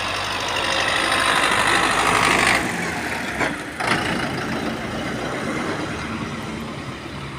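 Road traffic and vehicle engines running in a blizzard. It is louder for the first couple of seconds, with two sharp knocks about three and a half seconds in.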